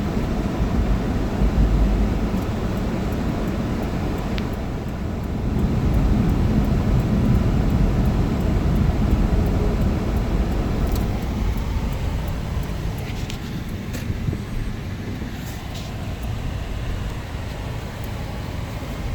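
Freight cars of a long mixed freight train rolling past: a steady low rumble of wheels on rail, with a few short high clicks and squeaks in the second half as the rumble eases slightly.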